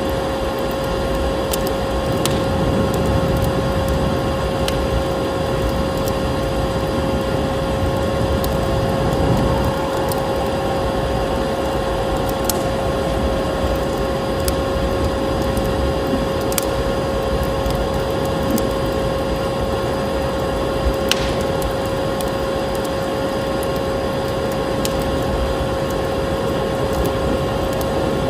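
Vacuum cleaner running steadily with a constant whine, mixed with the crackle and scattered pops of a wood fire in a fireplace.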